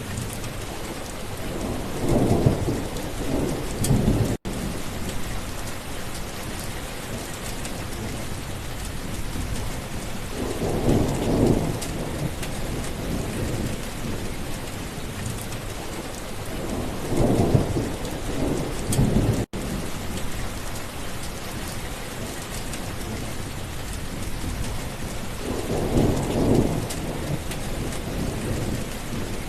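Steady rain with thunder rumbling four times, each roll swelling and fading over a second or two. The sound cuts out twice for an instant.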